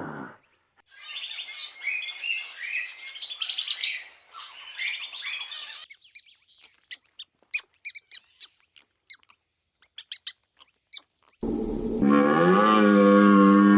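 Small birds chirping in a dense, busy chorus for about five seconds, then a run of scattered single sharp chirps. Near the end a cow starts a long, loud moo, the loudest sound here.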